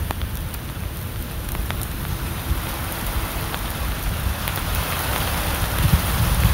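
Rain falling steadily: a noisy hiss with scattered drop ticks, over a low rumble of wind on the microphone that swells near the end.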